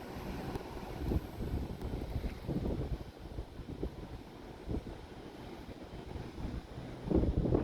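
Wind buffeting the microphone in irregular low gusts, with a stronger gust near the end.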